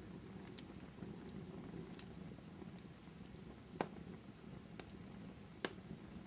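Fire in a fireplace burning steadily with a low rush of flame and scattered small crackles, and two louder sharp pops, one a little before the middle and one near the end.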